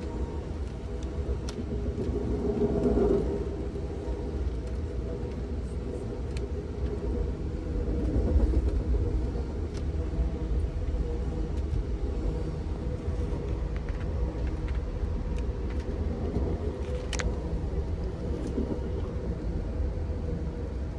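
Steady low rumble of an Amtrak Auto Train passenger car rolling along the track, heard from on board. It swells briefly about three seconds in, and a few sharp clicks and rattles break through, the loudest about seventeen seconds in.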